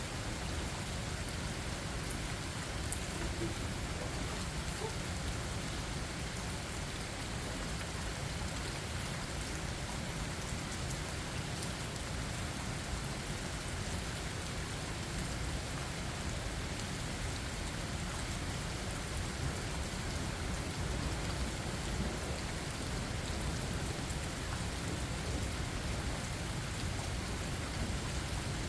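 Steady rain falling, an even hiss with one sharper tick about three seconds in.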